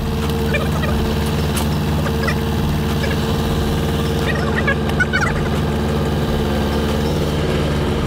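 A heavy diesel engine running steadily at an even speed, with short high squeaky chirps over it a few times.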